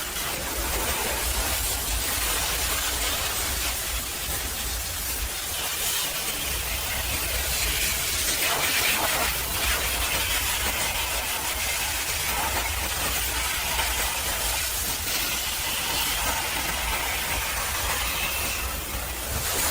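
High-pressure washer jet spraying water onto a truck: a steady, dense hiss with a low hum underneath.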